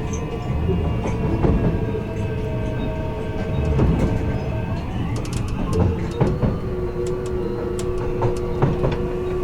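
Onboard running sound of a Kintetsu 16600 series electric train at the car end: the Hitachi inverter and traction motors whine in several steady tones that shift in pitch about five seconds in, over the running noise of the bogie. Short clacks of the wheels over the joints of jointed rail come through repeatedly.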